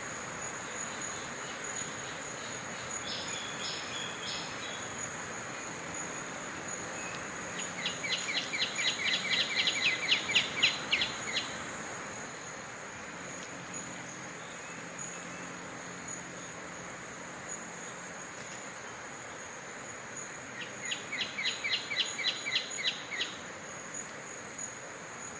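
Brown-backed honeyeater calling in two runs of rapid, sharp repeated notes, about four a second and growing louder. The second run is shorter than the first. A brief cluster of notes comes about three seconds in, and a steady high-pitched insect drone carries on underneath throughout.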